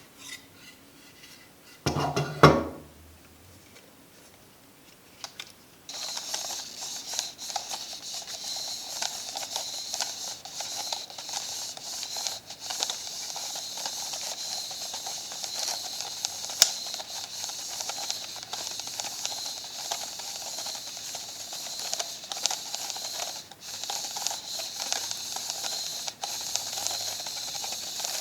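Old film camera being worked by hand: a loud clack about two seconds in, then from about six seconds a steady rasping hiss with fine ticking from the camera's mechanism.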